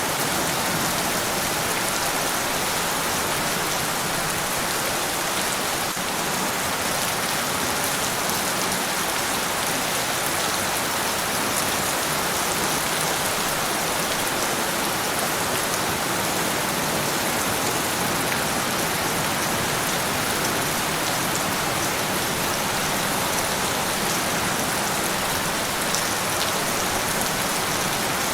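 Steady rain, a dense even hiss with scattered drops ticking on a surface.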